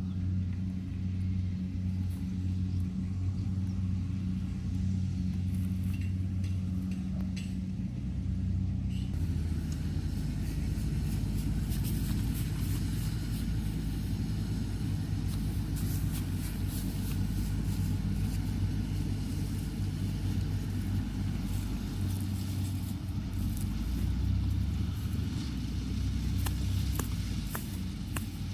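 Engine of a rice-harvest machine (combine harvester or straw baler) running steadily. About nine seconds in the sound turns rougher and noisier, with many light clicks and rattles over the drone.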